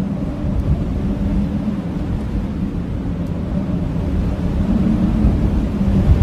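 Blizzard wind, a steady low rumble with a faint howling tone that swells gently.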